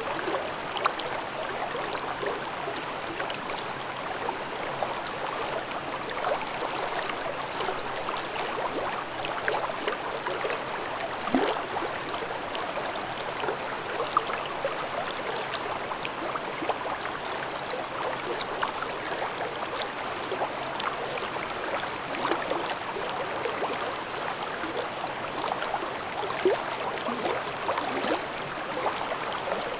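Mountain stream babbling over rocks: a steady rush of water dotted with many small splashes and gurgles.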